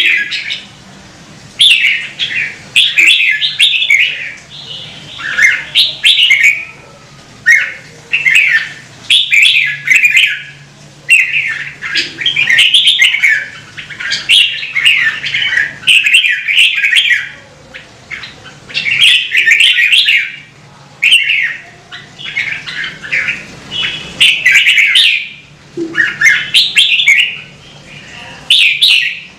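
Red-whiskered bulbul singing: a steady run of short, warbled phrases, each about a second long, with brief pauses between them.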